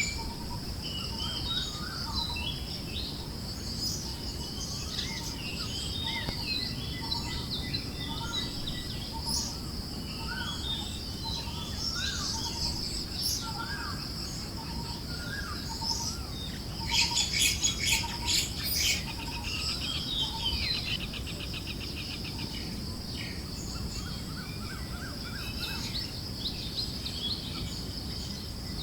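Forest birds chirping and calling in many short notes over a soft wind and a steady high insect buzz. A rapid rattling trill about two-thirds of the way through is the loudest sound.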